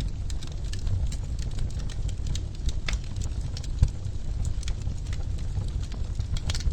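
Wood fire in a fireplace crackling: irregular sharp pops and snaps over a steady low rumble of the burning logs, with one louder pop a little past the middle.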